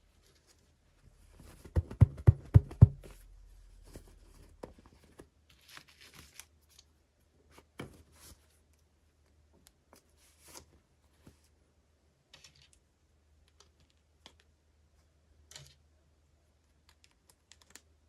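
Toy packaging being handled and opened: a quick run of about five sharp clicks about two seconds in, then scattered faint clicks and rustles.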